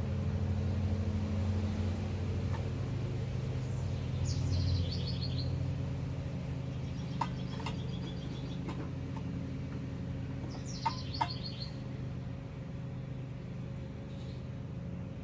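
A songbird singing two short descending trills, about six seconds apart, over a steady low rumble, with a few light clicks in between.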